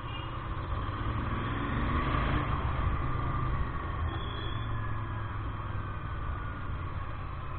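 Royal Enfield Interceptor 650 motorcycle running on the move, a steady heavy low rumble that swells about two seconds in and eases off again.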